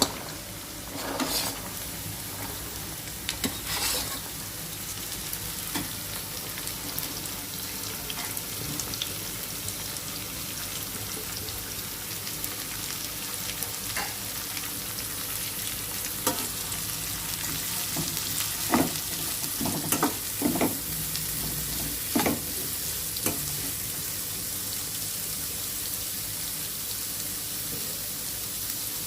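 Chopped carrot sizzling steadily in hot oil in a pan, with scattered scrapes and knocks of a spoon stirring it.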